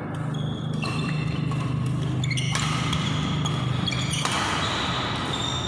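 Badminton rally: rackets hitting a shuttlecock several times at irregular intervals, with short high squeaks, likely shoes on the court floor, in a large echoing hall. A steady low hum runs underneath.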